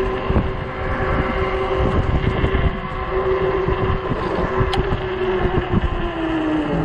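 Strong wind buffeting the microphone while riding, with a steady whine that drops in pitch near the end.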